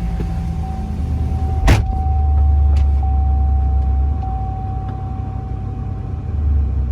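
Chevrolet SSR's 5.3-litre V8 started with the key, with a sharp click about a second and a half in and then a steady low rumble at idle. A thin steady whine sits over it.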